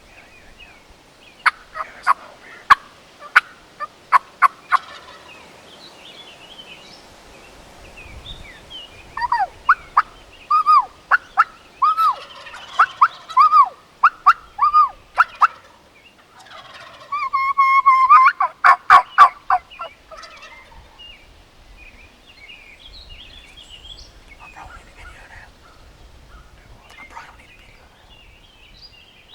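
Wild turkey calling: a handful of sharp, clipped notes, then a run of yelps from about 9 to 15 seconds in, and a rapid rattling gobble around 17 to 20 seconds in.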